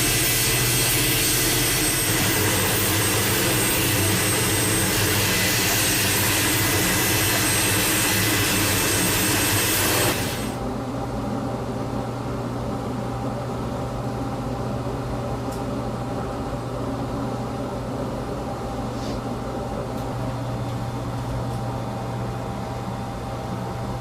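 Jet aircraft engine running loud and steady, with a high whine over the rush. It cuts off abruptly about ten seconds in, leaving a quieter steady low hum with a few faint ticks.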